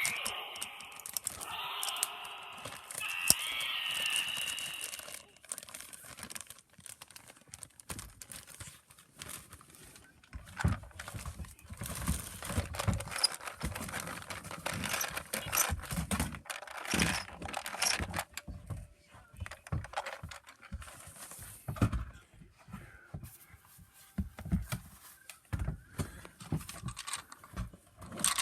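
Toys being handled and rummaged through, with irregular clicks, knocks and clatters. A wavering pitched sound is heard in the first few seconds and stops at about five seconds in.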